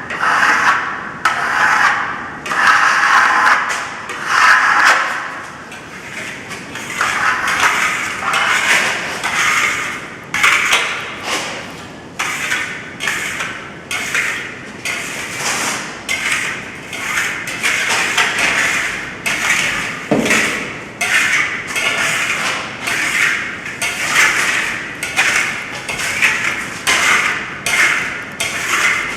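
Steel trowel scraping across Venetian plaster in repeated short strokes, roughly one or two a second.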